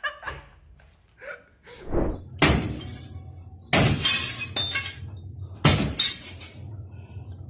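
Glass shattering under a ram's repeated head-butts: four heavy crashes with breaking glass ringing after each, a second or two apart, and a few lighter knocks before the first.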